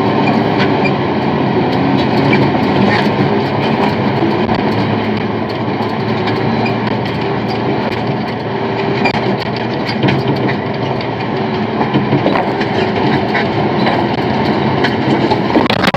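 Haul truck under way: its diesel engine running with a steady loud drone, with constant rattling and clicking over it.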